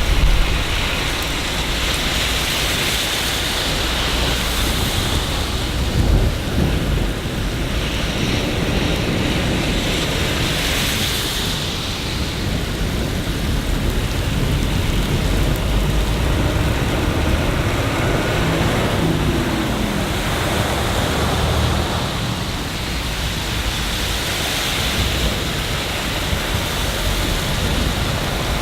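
Steady rain with low rumbles of thunder, the loudest right at the start and about six seconds in. The hiss of the rain swells and fades several times.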